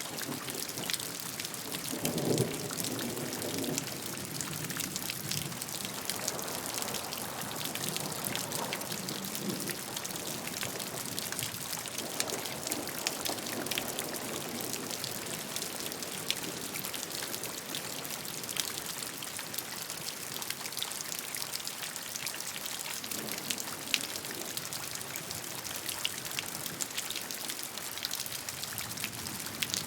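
Steady rainfall, with many individual drops ticking on a surface over an even hiss. A few lower swells rise and fade about 2, 12 and 23 seconds in.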